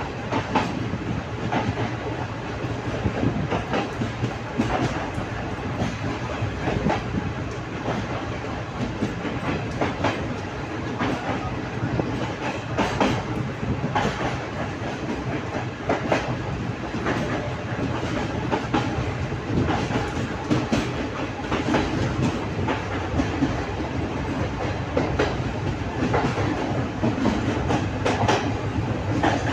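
Train running on rails: a steady rumble with frequent, irregular clicks of the wheels passing over rail joints.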